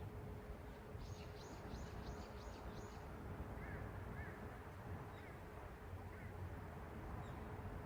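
Small birds calling over a steady low city hum: a quick run of six high chirps in the first few seconds, then a few lower short calls spaced about half a second to a second apart. A faint steady tone runs under it all.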